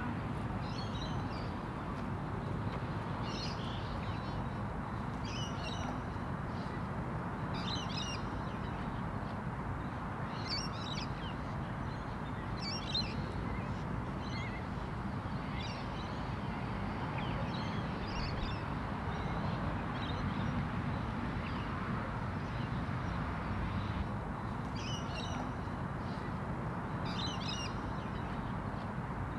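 Birds giving short calls every two seconds or so over a steady low background rumble, with a few seconds' pause about three-quarters of the way through.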